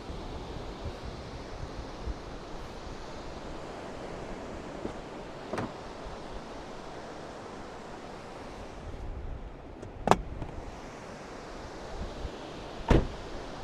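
Steady wind and surf noise on an open beach, with gusts buffeting the microphone, broken by three sharp knocks, the loudest about ten seconds in.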